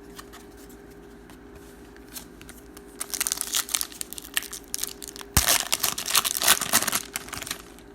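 Plastic trading-card pack wrapper being torn open and crinkled, starting about three seconds in and loudest in the last couple of seconds, with a sharp snap partway through.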